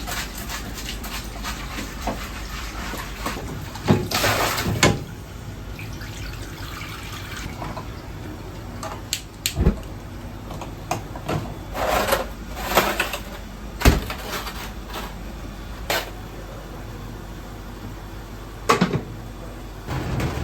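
Ramen kitchen at work: two brief spells of running water, and scattered clinks and knocks of utensils and bowls, over a steady low hum.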